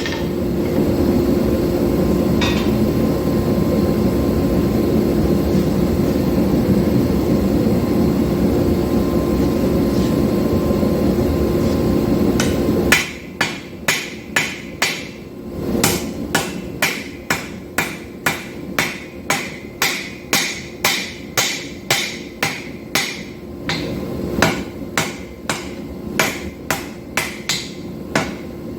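A steady roaring rush for about the first thirteen seconds, then hammer blows on steel at the anvil, about two strikes a second with a metallic ring: 5160 steel being forged and drawn out for an integral knife.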